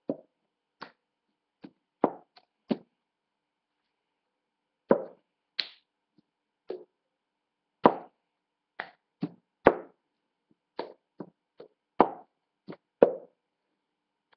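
Cup-game rhythm played haltingly on a table: hand claps and a cup knocked, flipped and set down, about twenty sharp hits at uneven spacing with short pauses between.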